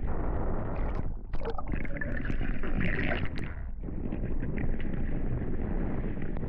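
Wind buffeting the microphone and water rushing along a Hobie 16 catamaran's hulls under sail, a steady noisy rush. It drops out briefly about a second in, and a brighter hiss rises for a second or so in the middle.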